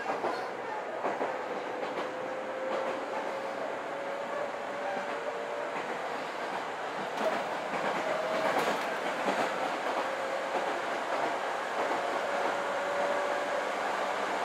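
Chichibu Railway 6000 series electric train running, heard from inside the passenger car: a steady rumble of wheels on rail with occasional clicks over rail joints, and a faint whine slowly rising in pitch.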